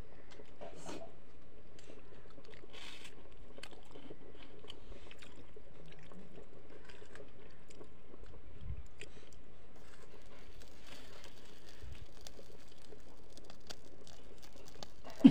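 Close-miked chewing and mouth sounds of a man eating rice and fish curry by hand, faint and irregular with small wet clicks, over a steady background hiss.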